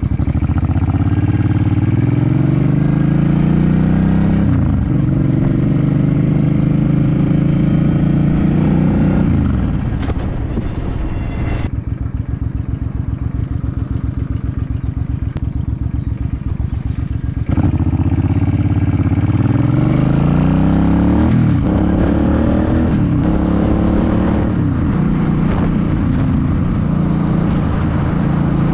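Suzuki C50 V-twin motorcycle engine pulling away and accelerating through the gears, its pitch rising and breaking at each upshift. About ten seconds in it drops to a lower, steady note for several seconds. Then it pulls away again and shifts up several more times.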